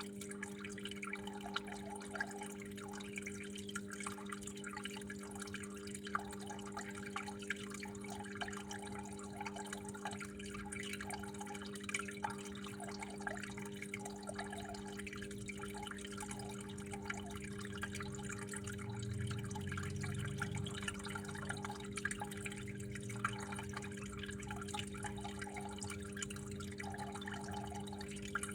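Water dripping and trickling, with irregular small drips and plops over a steady low hum.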